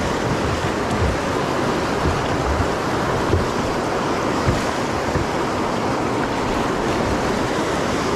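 Steady rush of moving river water, with wind buffeting the microphone in uneven low thumps.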